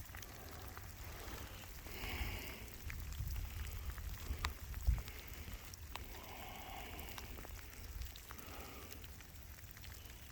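Rain falling, with scattered drops ticking close by over a low rumble, and a single thump about five seconds in.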